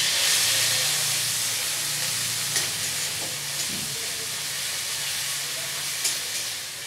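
Ground onion paste sizzling as it fries in hot oil in a metal kadai, stirred with a metal spatula. The hiss is loudest at first and eases a little, with a few light scrapes and taps of the spatula.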